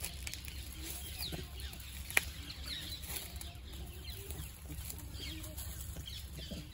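Birds chirping in short falling notes, with a single sharp click about two seconds in.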